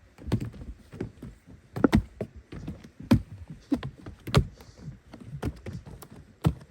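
A series of irregular knocks and thumps, about a dozen at uneven spacing, some sharp and loud.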